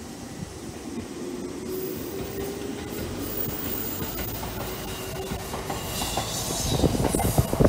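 Two-car electric train running past on the line: wheel-on-rail rumble that grows louder, with a steady humming tone through the middle and a high hiss about six seconds in.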